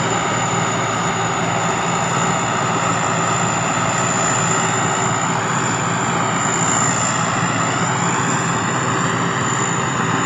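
Sakphatthana SS-300 combine harvester's Hino J08C diesel engine running steadily under harvesting load, with a constant high turbo whine over the engine noise.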